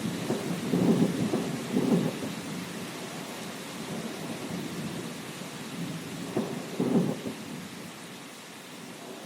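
Thunderstorm: rolling thunder over steady rain. The thunder swells loudest about a second in, again at two seconds and around seven seconds, then the rumble dies away, leaving the rain.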